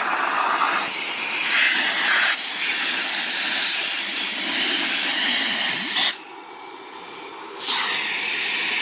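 Twenty-year-old Miele 312 canister vacuum running with its original hose on a water lift gauge: a steady rushing hiss of air as its suction is measured. About six seconds in, the sound drops away sharply for about a second and a half, then comes back.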